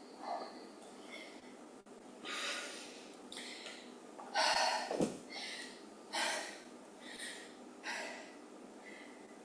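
A person breathing hard, a breath about every second, the loudest about halfway through: recovering from an all-out one-minute cardio sprint.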